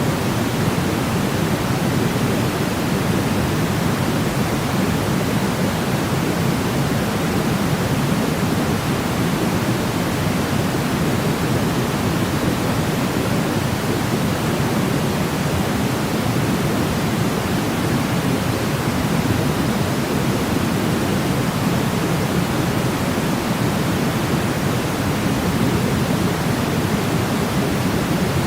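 Steady synthetic white noise of the pink kind, a constant even hiss weighted toward the low end, with no changes.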